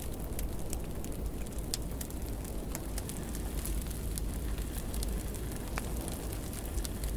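Wood fire burning in a fireplace, with a steady low rumble of the flames and scattered sharp crackles and pops.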